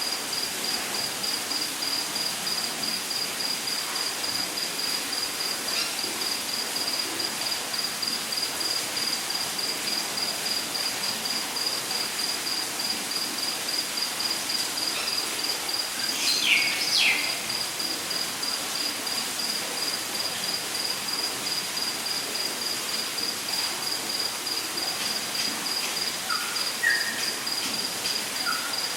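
Rainforest ambience: an insect, cricket-like, trills steadily at one high pitch over an even hiss. A bird calls with a couple of quick falling notes about halfway, and short chirps come near the end.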